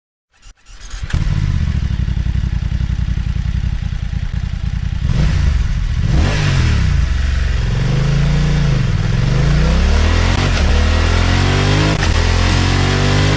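BMW motorcycle engine starting, settling into a steady idle, then revved several times from about five seconds in, its pitch rising and falling with each blip of the throttle.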